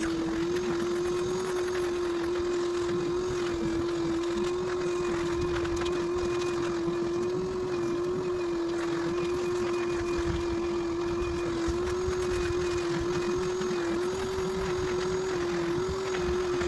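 A carpet-cleaning machine's motor running at a steady speed, a constant droning hum that wavers only slightly in pitch.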